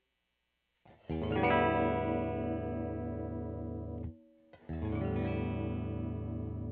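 Electric guitar, a Fender Jazzmaster HS Blacktop converted into a 'Jazzblaster', played through an amplifier. About a second in a chord is struck and left to ring, then it is cut off about three seconds later. A second chord is struck soon after and rings on.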